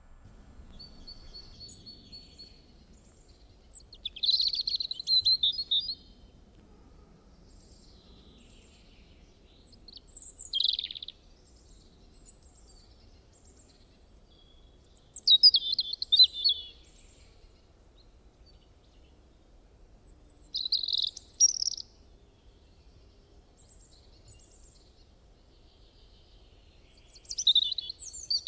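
A songbird singing short, high, twittering phrases about every five seconds over a faint low background rumble.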